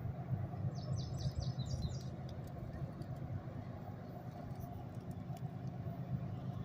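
Steady low rumble of the GE diesel freight locomotives working a tank train up to speed, with a bird chirping a quick run of high notes about a second in.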